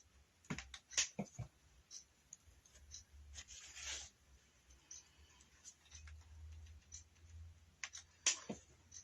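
Scattered light clicks and taps with a short rustle about four seconds in, from small objects being handled.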